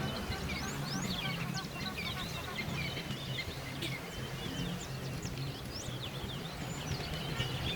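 Many small birds chirping continuously, dense and overlapping, over a steady low hum.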